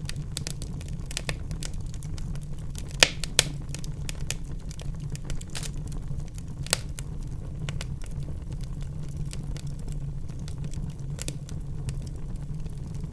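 Wood fire in a fireplace crackling, with a steady low rumble of the flames and scattered sharp pops, the loudest about three seconds in and again near seven seconds.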